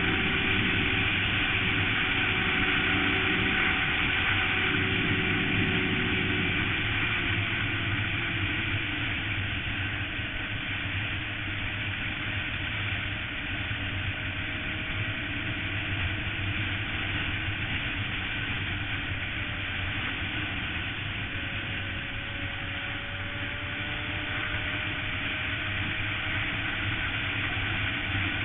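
Suzuki GSX-R sportbike's inline-four engine running at speed under steady wind rush. The engine note drops about seven seconds in, then climbs slowly through the rest.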